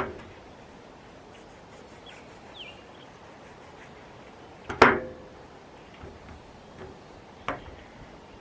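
A few sharp knocks and clatters from handling food and gear: one right at the start, the loudest about five seconds in with a brief ring, another near the end. Faint short bird chirps sound between them.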